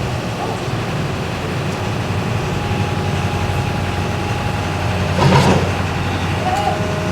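Hymac excavator's diesel engine running steadily as it pulls on a steel cable. There is a brief louder rush of noise about five seconds in.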